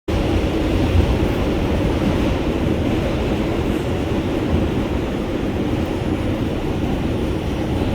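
Steady low rumble of an R142 subway train in motion, heard from inside the car.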